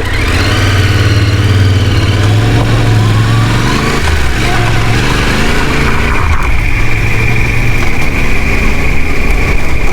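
Off-road motorcycle engine revving, its pitch rising sharply at the start, then rising and falling through the first six seconds. About six seconds in, a steady high tone joins it.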